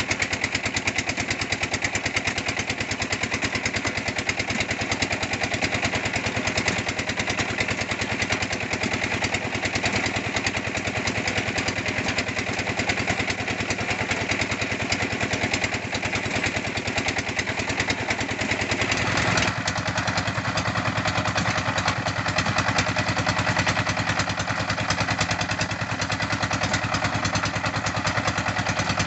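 Red-brick press machine running steadily under engine power, a dense, even beat of engine firing pulses. About two-thirds of the way through, the tone changes abruptly and the engine sounds heavier.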